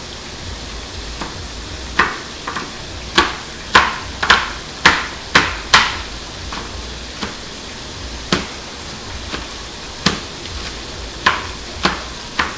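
Knife chopping bell pepper on a cutting board: about a dozen sharp knocks, with a quick run of them a couple of seconds in, over the steady sizzle of chicken frying in oil.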